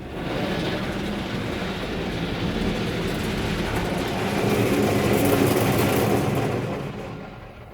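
Soft-touch automatic car wash gantry working over the van, its spinning cloth brushes and spray heard from inside the cabin as a steady wash noise that swells about four seconds in and fades near the end.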